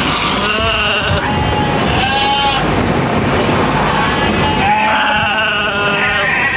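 Sheep bleating three times, the last call the longest, over a steady background noise.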